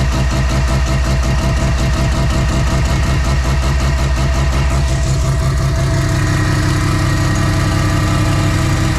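Semi-peripheral-ported rotary engine of a turbocharged Mazda FD RX-7 running at idle with a loud, choppy, evenly pulsing note. Its tone shifts about six seconds in.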